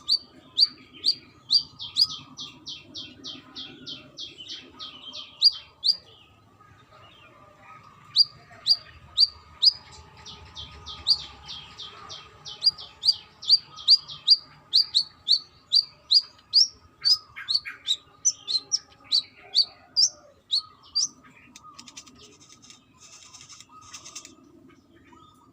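Brown-throated sunbird singing: fast runs of short, sharp high chirps, about four a second, in two long bouts broken by a pause of about two seconds, the second bout ending a few seconds before the end.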